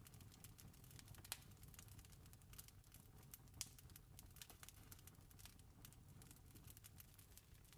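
Campfire crackling faintly: irregular small pops and snaps, with two sharper pops about a second and a half and three and a half seconds in, over a low steady rumble.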